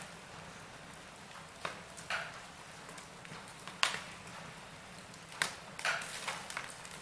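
Wood fire crackling in a fireplace: a soft steady hiss with irregular sharp pops and snaps, the loudest about four seconds in and a quick cluster of them a little later.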